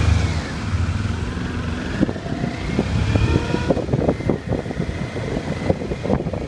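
Motorcycle engine running while riding, its pitch climbing over the first few seconds as it accelerates and then holding steady, with wind buffeting the microphone.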